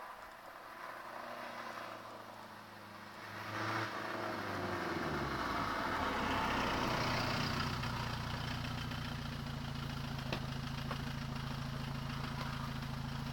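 Peugeot 306 HDi turbodiesel with a de-catted, straight-through exhaust: the engine note falls as the revs drop about four seconds in, getting louder, then settles into a steady idle.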